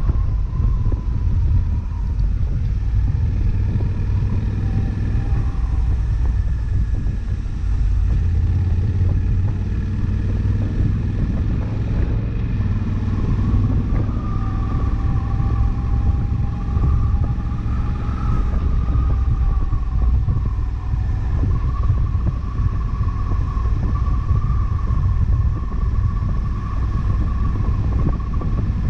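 Honda CRF1100L Africa Twin's parallel-twin engine running as the bike cruises at steady speed, heard from the rider's position under a constant low rumble. The engine's pitch drifts only slightly.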